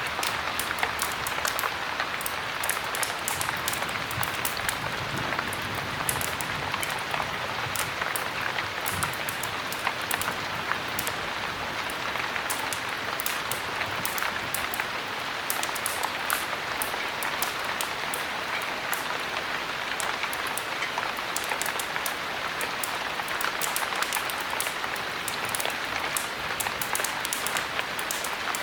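Steady heavy rain, an even hiss with many small sharp clicks and taps scattered through it.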